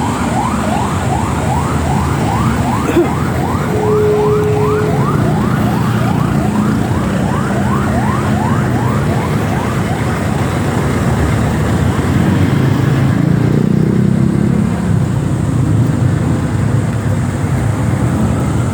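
Emergency vehicle siren on a fast yelp, quick rising sweeps about three a second, fading out about halfway through, over the steady rumble of idling vehicle engines.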